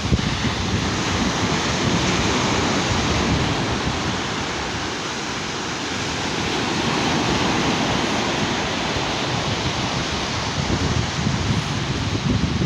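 Sea surf washing on a beach, a steady rushing wash that eases slightly midway and swells again, with wind buffeting the microphone near the start and end.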